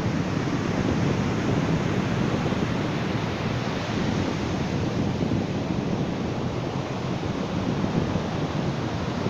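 Ocean surf: a steady wash of waves with a deep rumble, with no single breaker standing out.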